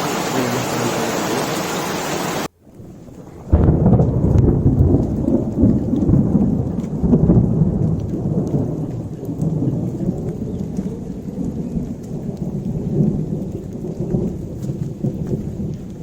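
Steady hiss of heavy rain that cuts off abruptly about two and a half seconds in. About a second later a long, loud roll of thunder starts and slowly dies away toward the end.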